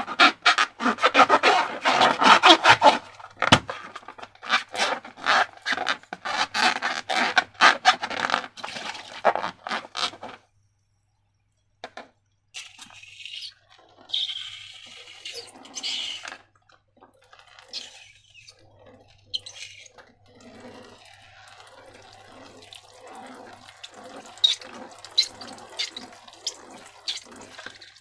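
Wet slime squelching and clicking as it is squeezed and worked by hand. A dense run of sticky clicks lasts about ten seconds, then comes a short pause, then softer, slower squelches.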